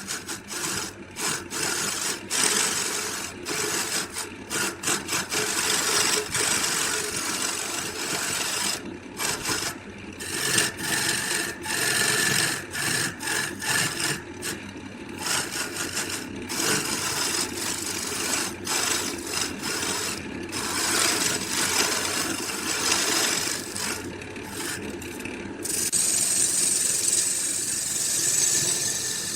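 A tool rasping on wood in repeated, uneven strokes with short breaks between them. About 26 seconds in it gives way to a steadier hiss.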